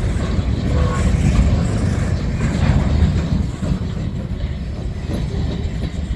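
Covered hopper cars of a freight train rolling past, their steel wheels rumbling on the rails. The sound eases off after about four seconds as the last car passes and moves away.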